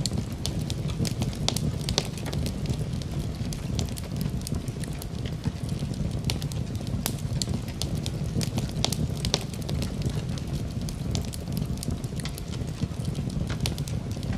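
Wood fire in a fireplace crackling, with a steady low rumble of the flames and many sharp, irregular pops and snaps.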